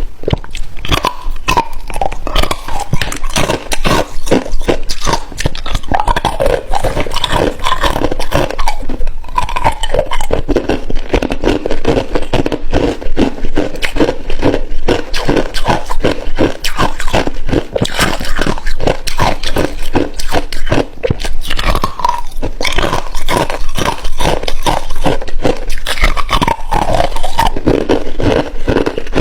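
Hard ice being bitten and chewed: dense, rapid crunching and cracking with no pause, with a few short falling squeaks now and then.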